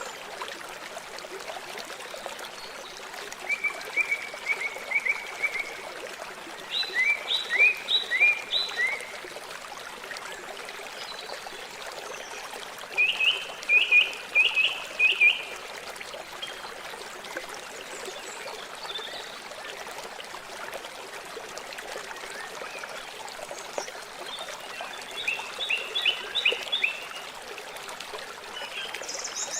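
River water flowing steadily. Four times, short high chirping calls break in, each a quick run of repeated notes lasting two to three seconds.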